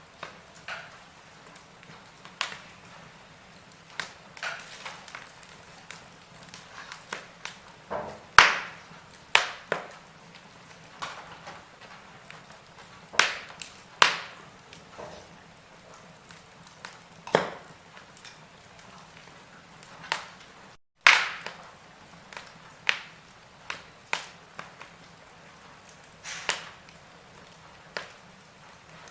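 Wood fire in a fireplace crackling: irregular sharp pops and snaps over a faint steady hiss. The sound cuts out for a split second about two-thirds of the way through.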